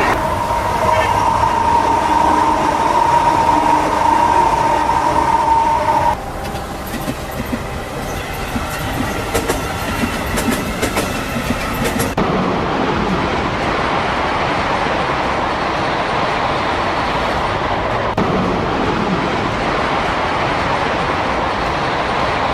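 High-speed train running, heard across three edited clips. First comes a steady whine, then about six seconds in a stretch of rapid clicking from wheels over the track, and from about halfway a steady rushing noise.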